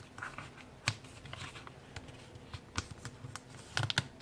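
Sheet of letter-size paper being handled and folded: scattered light crinkles and taps of the paper, with a sharper crackle about a second in and a quick run of them near the end.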